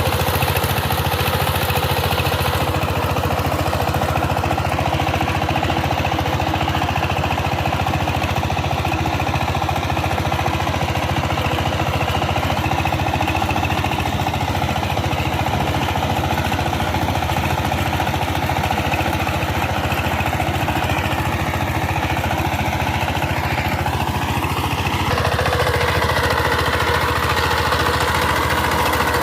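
Diesel power tiller engine running steadily, with a rapid, even knocking beat.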